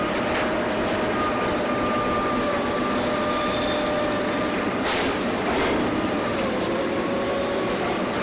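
Steady mechanical drone of a running engine, with a held hum and one sharp knock about five seconds in.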